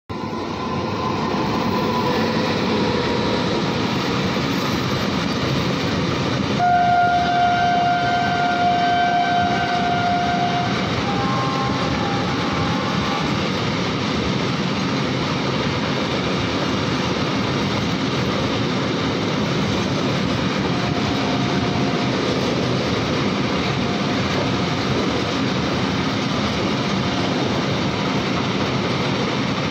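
Long electric-hauled freight train rolling steadily through a station, its wagons' wheels running on the rails in a continuous rumble. A locomotive horn sounds for about four seconds starting about seven seconds in, then briefly again.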